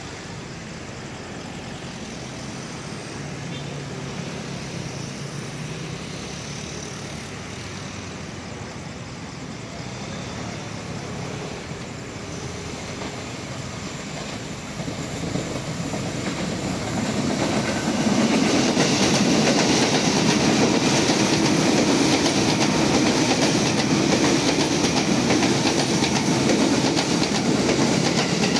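KRL Commuter Line electric train approaching and running past below. Its noise builds from about halfway through and stays loud and steady to the end; before that only a quieter steady hum.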